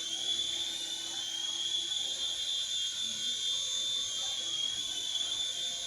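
Small electric motor of a mini toy helicopter running with a steady high-pitched whine.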